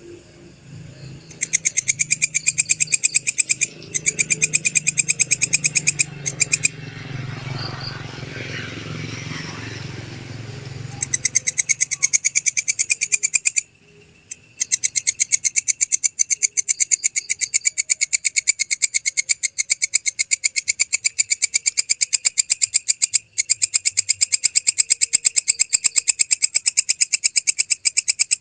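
Walang kecek grasshopper calling: fast, even runs of sharp high ticks, broken by brief pauses and then resuming, with one long steady run through the second half. A low rumble and hiss lies under the first half and fades out a little before the middle.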